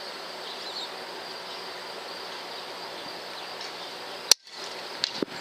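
A single sharp shot from a .177 FX Impact PCP air rifle about four seconds in, over a steady outdoor background hiss.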